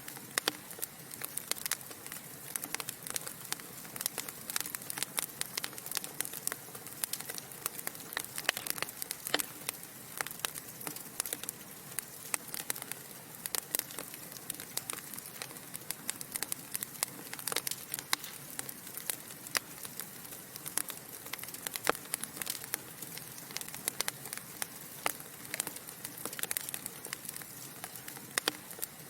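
Wood fire in a fireplace crackling: dense, irregular snaps and pops from burning logs over a soft steady hiss.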